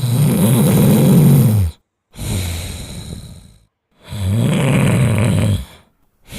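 Dog snoring in a steady rhythm: two loud, pitched snores of nearly two seconds each, each followed by a softer, breathier one, with brief silent gaps between.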